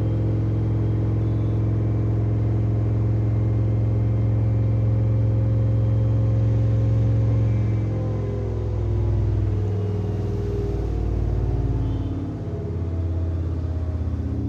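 LG front-loading washing machine spinning its drum at high speed (set to 1200 rpm) with a steady motor hum. About eight seconds in the tone shifts and wavers as the spin speed changes.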